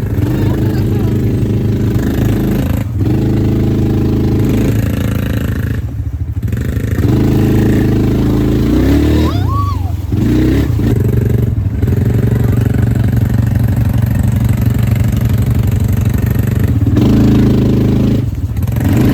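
ATV engine running under throttle, its pitch rising and falling as it is ridden, broken by a few sudden short gaps.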